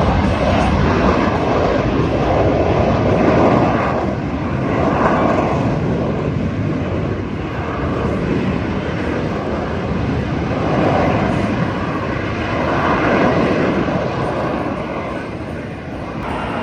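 Jet noise from an F-35B fighter's single turbofan engine during a flying display. The loud, continuous noise swells and eases several times as the jet moves.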